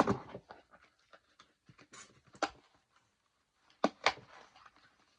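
Items being handled while a box is unpacked: packaging rustles, with a few sharp knocks and clacks as pieces are lifted out and set down, the loudest at the start, about two and a half seconds in, and a pair close together near four seconds.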